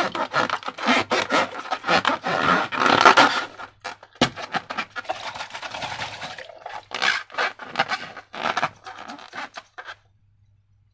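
Slime and balloons being handled and squeezed: dense crackly rubbing and squishing with many sharp sticky clicks, stopping abruptly about ten seconds in.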